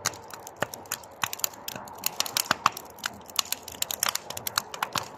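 Wood bonfire crackling, with irregular sharp snaps and pops, several a second, over a faint steady hiss of the flames.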